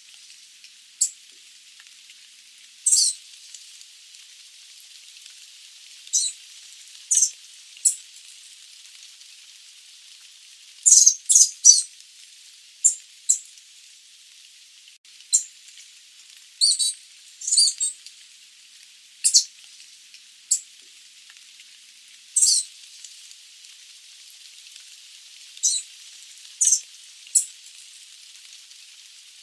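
Sooty babbler giving short, high, sharp call notes at irregular intervals, now singly and now in quick runs of two or three, over a steady hiss.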